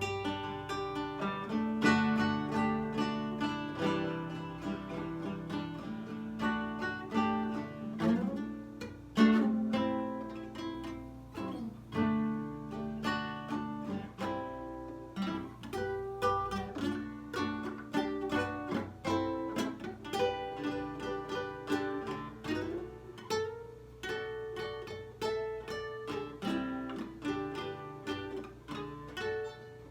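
Lyle nylon-string guitar played solo: an instrumental passage of picked notes and chords, each ringing on after it is plucked.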